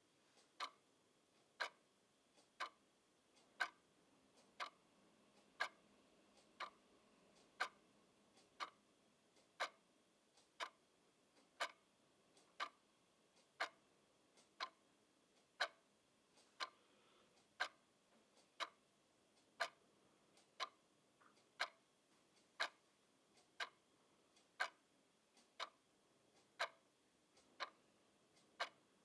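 Clock ticking steadily, sharp ticks at about one a second.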